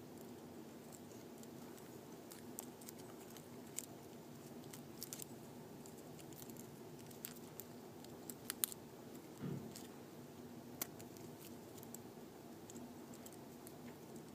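Faint steady room hum with scattered small clicks and taps from working a new iPhone 4S flex cable and small parts by hand, a dozen or so light ticks spread through, and one soft low bump about nine and a half seconds in.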